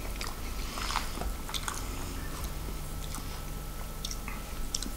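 A man chewing a mouthful of corned beef hash, with small wet mouth clicks scattered through.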